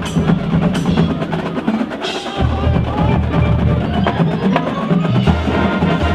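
High school marching band playing, with busy percussion: quick woodblock-like and drum strokes over brass, and low bass notes coming in about two seconds in.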